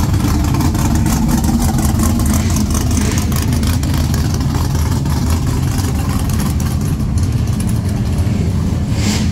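Car engine and exhaust rumbling steadily at low revs as a car cruises slowly past.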